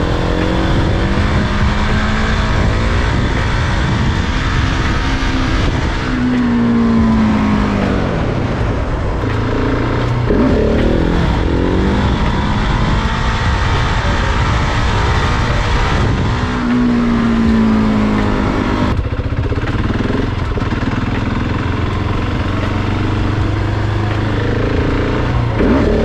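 Supermoto motorcycle engine ridden hard in third gear, revving up and easing off several times as the rider throttles up for wheelies, over constant low rumbling noise.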